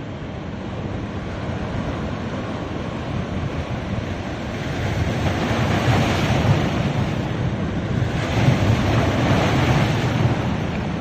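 Sea waves washing onto a beach, the surf swelling twice, about halfway through and again a little later, with wind rumbling on the microphone.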